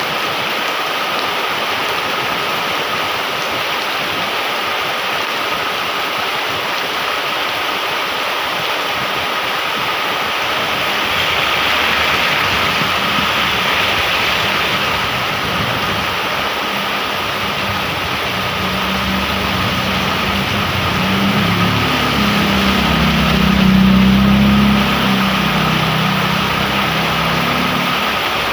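Heavy rain pouring steadily. From about a third of the way in, a motor vehicle's engine grows louder, is loudest near the end, then eases off.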